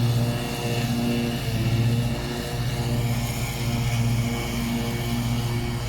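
John Deere S160 lawn tractor's 24-hp V-twin engine running steadily while mowing. Its drone swells and eases in loudness about every second.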